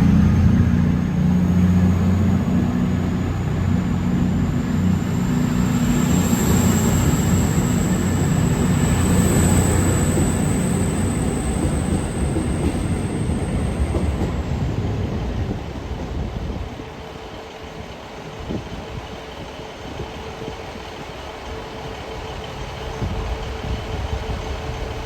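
A train running through the station, loud at first and then fading away over the second half. A thin high-pitched whine rises slowly through the first half and stops about fourteen seconds in.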